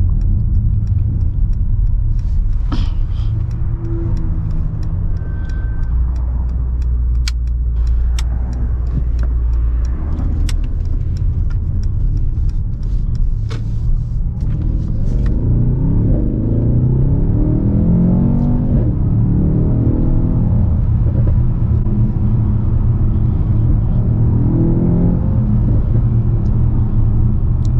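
Mercedes-AMG S63's 4.0-litre twin-turbo V8 driving, with a steady low drone. From about halfway through, the engine note rises and falls repeatedly as the car accelerates and revs climb.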